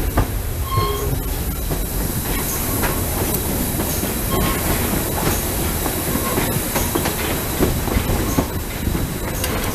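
A train rolling steadily along the rails, its wheels clattering over the track with a few brief high squeals.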